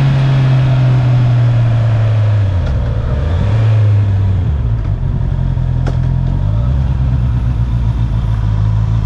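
Stock Honda CB650R inline-four engine heard from the rider's position. Its note falls as the bike slows over the first few seconds, then runs on at lower revs with small rises and falls. A single sharp click comes about six seconds in.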